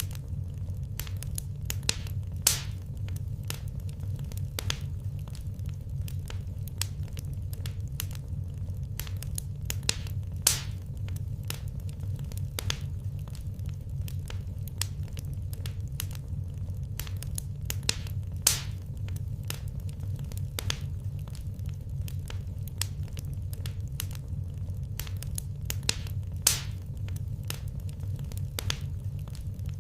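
Wood fire crackling in a fireplace: a constant run of small snaps over a steady low rumble, with four louder pops spaced about eight seconds apart.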